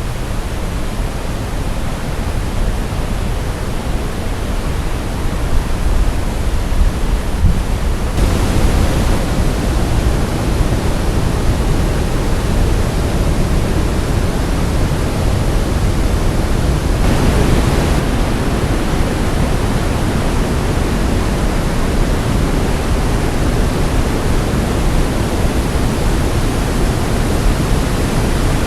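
Rushing water of Ryuzu Falls, a cascade, heard as a loud, steady wash of noise. It grows louder about eight seconds in and again just past halfway.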